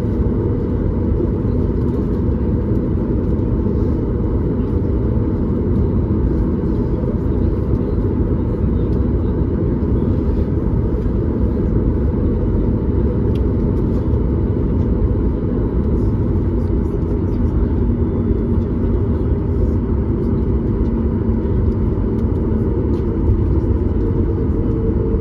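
Steady, loud cabin noise of a Boeing 737 MAX 8 in flight, heard from a window seat just behind the wing: an even, low rumble of engines and airflow that holds unchanged throughout.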